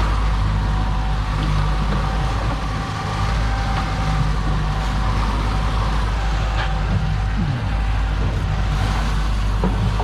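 Fishing boat's engine running steadily under way at trolling speed, with an even hiss over it.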